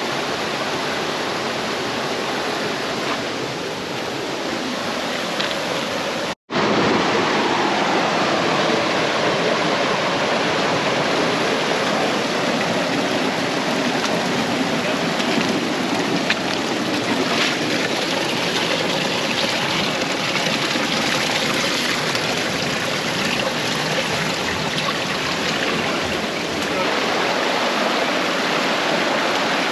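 Steady rush of flowing creek water. A brief cut-out about six seconds in, after which the water is a little louder.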